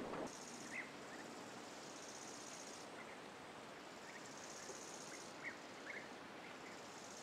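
High-pitched insect buzzing in pulsed bursts a second or more long, stopping and starting, over a quiet outdoor background. A few short bird chirps come through, one about a second in and two close together near the end.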